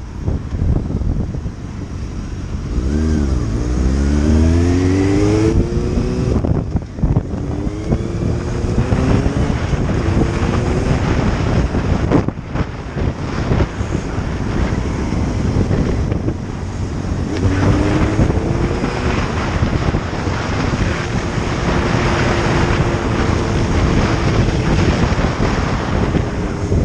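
Motorcycle engine accelerating through the gears, its revs climbing several times with brief breaks at the gear changes, then holding steadier, under heavy wind noise on the microphone.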